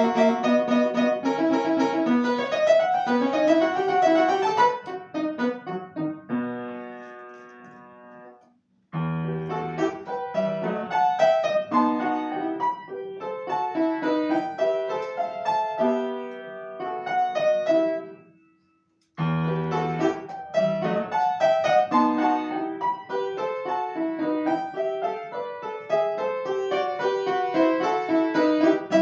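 Solo piano playing a classical piece: quick running passages, twice broken off by a held chord left to ring away into a short silence before the playing starts again.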